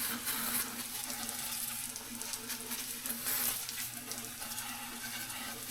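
Brake cleaner hissing from a refillable air-pressurised spray can, sprayed in uneven spurts, over a steady low electrical hum.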